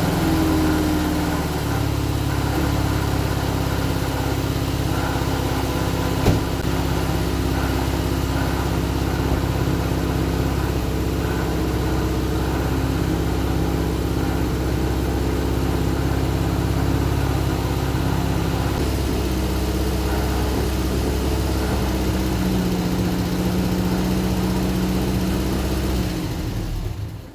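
1975 Vauxhall Viva HC engine running at a steady idle, with an exhaust blow still leaking from the exhaust middle section. A loose fan/alternator belt is flapping. The sound cuts off near the end.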